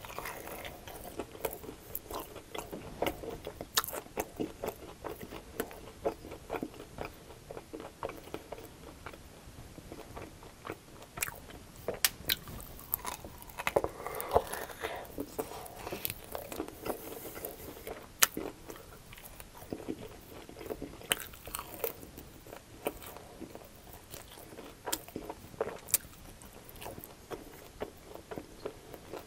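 Close-miked biting and chewing of crunchy breaded fried chicken wings, with sharp irregular crunches and wet chewing throughout.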